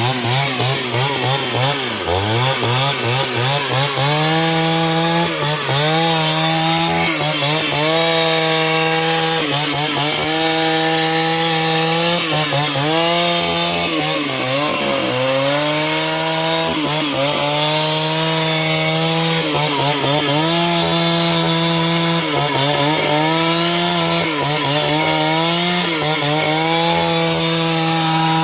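Chainsaw running at high revs, cutting lumber into boards; its engine pitch sags briefly every second or two as the chain bogs in the wood, then picks back up.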